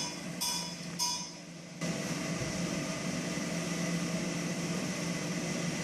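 A run of evenly spaced metallic clinks, about one every half second, each ringing with a clear tone. About two seconds in, this cuts to a steady hiss with a low hum.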